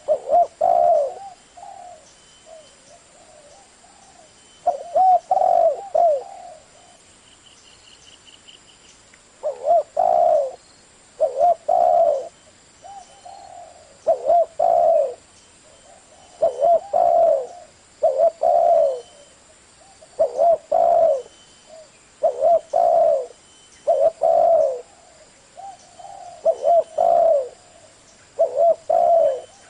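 Spotted dove cooing: repeated phrases of two or three low coo notes, about one phrase every two seconds, with a few longer pauses between them.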